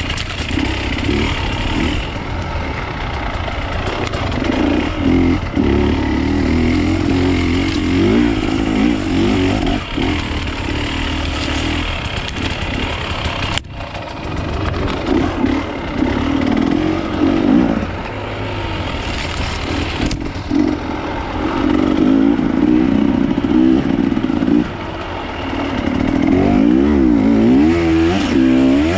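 Off-road enduro motorcycle engine being ridden, the throttle opening and closing so the engine note rises and falls again and again, with quick up-and-down revs near the end.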